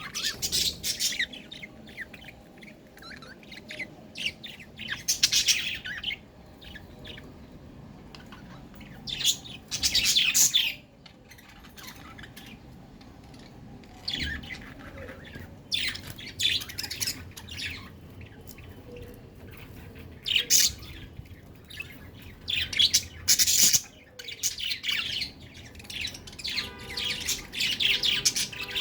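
Budgerigars chirping and chattering in repeated bursts of high, warbling calls, with short pauses between them.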